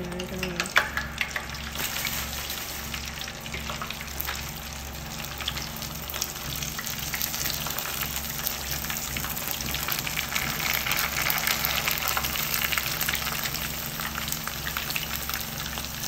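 Dried prawn crackers frying in a pan of hot oil, sizzling with dense fine crackling as they puff up. The crackling grows a little louder past the middle.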